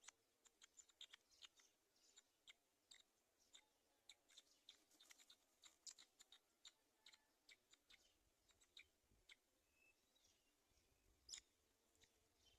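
Faint, irregular clicking and ticking, several sharp clicks a second, with a brief faint chirp about nine seconds in.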